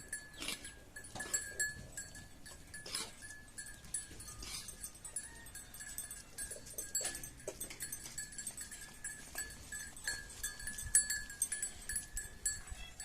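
Sheep and goats bleating now and then over a steady thin high tone.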